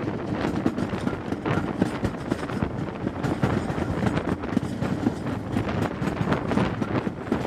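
Steam-hauled passenger train running, heard from an open coach window: a steady rumble with frequent irregular clicks from the wheels on the track.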